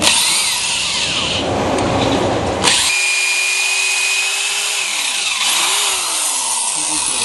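Power drill boring a bolt hole into a VW 1600 engine's AS41 aluminium-magnesium case, running continuously. About a third of the way in the sound changes and a steady whine sets in, dipping in pitch briefly a couple of times as the bit works deeper.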